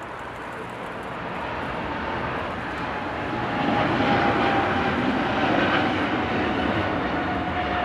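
Jet airliner passing close: engine noise grows louder over the first few seconds, then holds, with a steady whine that drifts slightly lower in pitch.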